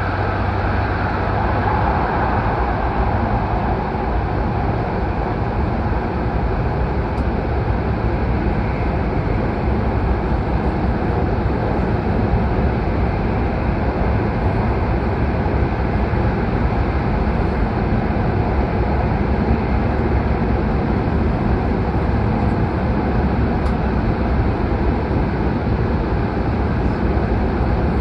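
H5 series Shinkansen train running at speed through a long tunnel, heard from inside a passenger car: a steady, loud rumble and rush of wheel and air noise.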